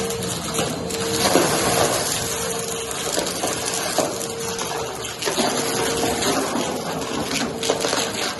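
Vacuum cleaner running on carpet: a steady motor tone under a rushing of air, with scattered clicks and rattles of hard debris being sucked up.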